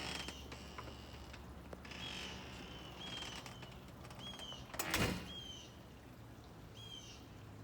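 A bird calling outdoors, repeating a short chirp roughly once a second, each note a quick high slide downward. About five seconds in comes a brief, loud rush of noise, the loudest thing heard.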